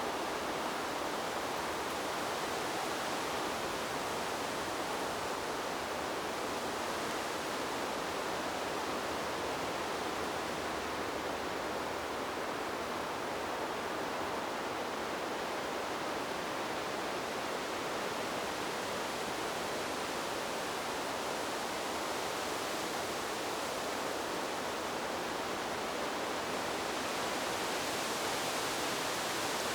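Steady rushing noise of wind through trees, even and unbroken with no distinct gusts, turning slightly brighter and hissier near the end.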